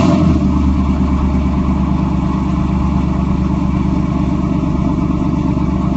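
Pontiac Firebird Trans Am WS6's V8 just started, flaring briefly as it catches and then settling into a steady idle through its dual exhaust.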